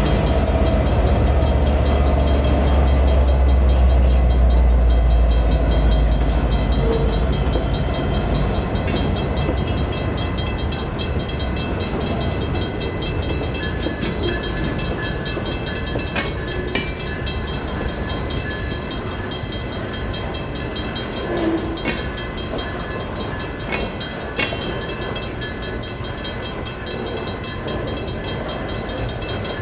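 EMD SD59MX diesel freight locomotive moving through a grade crossing, its deep engine rumble loudest for the first six seconds and then easing. Steady tones run over it throughout, and a few sharp metallic knocks come in the second half.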